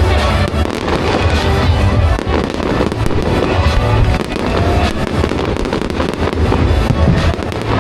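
Fireworks bursting and crackling in quick succession, over loud music with a pulsing bass.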